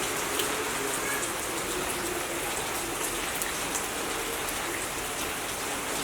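Steady monsoon rain falling, an even hiss of drops.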